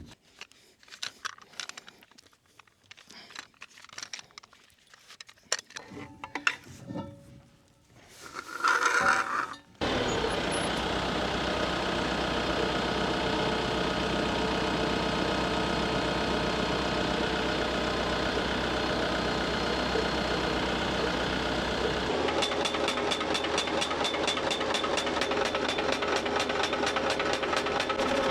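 A few faint knocks and handling sounds, then a tractor engine starts running steadily about ten seconds in. From a little past twenty seconds a post driver hammers a fence post into the ground with rapid, even blows, several a second, over the engine.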